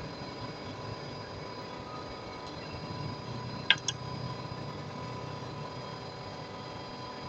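Machine running with a steady hum and a few thin steady tones, with two sharp clicks a fraction of a second apart about halfway through.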